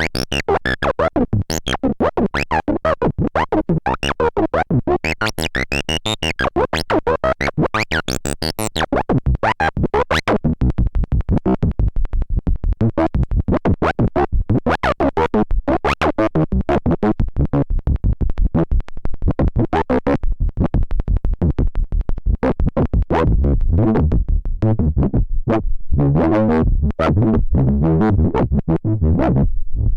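Synthesizer noise music: a fast, even pulsing pattern of harsh electronic tones, with a heavier bass layer coming in about two-thirds of the way through.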